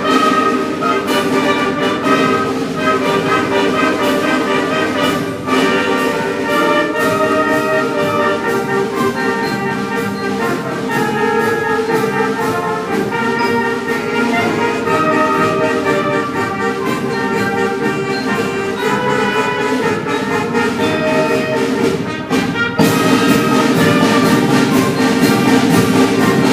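School concert band playing a piece: sustained wind and brass chords. The music drops briefly about 22 seconds in, then comes back louder.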